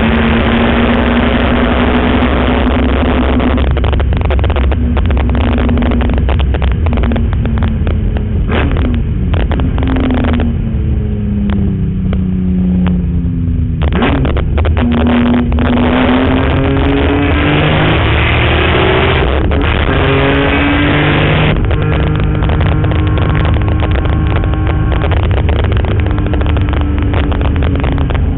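BMW E46 M3's straight-six engine driven hard on a race track, its revs climbing under acceleration and dropping at gear changes and braking. About halfway through the pitch falls for several seconds, then climbs steadily again.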